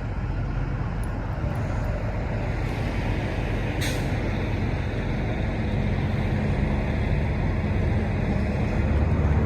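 Semi-truck diesel engine running steadily with a low rumble that grows louder near the end, and one brief sharp hiss about four seconds in.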